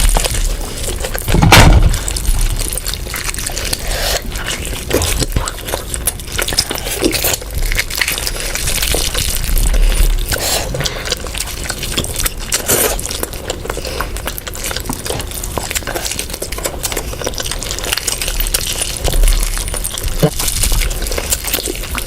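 Close-up wet eating sounds of curry and rice: mixing, chewing and mouth noises in a dense run of small clicks, with one louder knock about one and a half seconds in.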